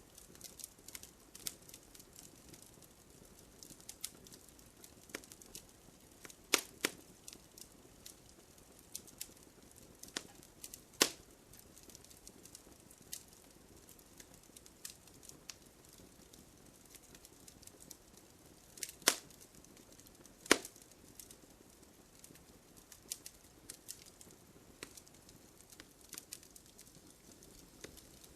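Wood campfire burning with a steady faint hiss and frequent small crackles, with a few sharp loud pops from the burning logs, the loudest near the middle and about two-thirds of the way in.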